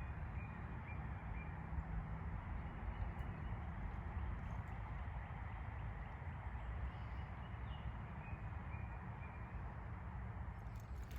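A dense chorus of frogs calling from a pond, many voices blending into a steady din, with a few higher peeps standing out, over a low rumble.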